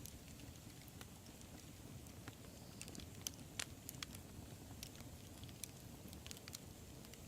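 Wood fire burning quietly: a soft low rumble of flame with irregular sharp crackles and pops, a louder pop about three and a half seconds in.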